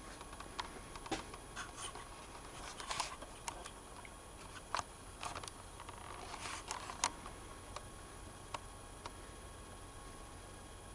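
Scattered light clicks and short scrapes at irregular intervals, the sharpest about five and seven seconds in, over a faint steady hum.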